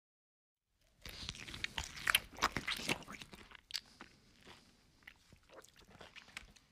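Close-miked chewing of a mouthful of masala-coated boiled egg. It starts about a second in as dense, crunchy chewing, loudest over the next two seconds, then settles into quieter, intermittent chewing.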